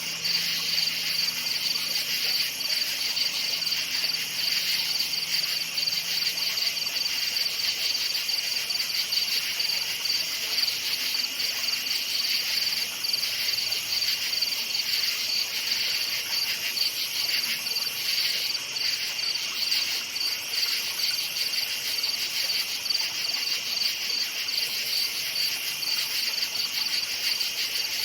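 A night chorus of crickets chirping: a dense, continuous high-pitched trill of rapid pulses that holds steady throughout.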